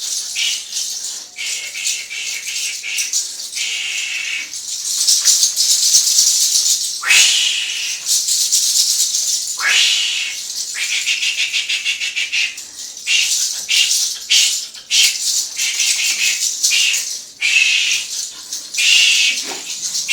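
A bundle of leafy herbs shaken and brushed over a person in quick strokes during a spiritual cleansing, the leaves rustling and rattling, with two fuller sweeping swishes about seven and ten seconds in.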